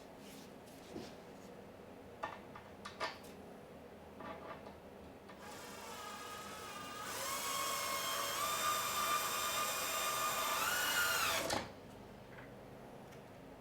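A few light clicks and taps, then a power drill driving a screw into the cedar frame: its motor whine builds up, holds steady for about four seconds, rises in pitch briefly and cuts off suddenly.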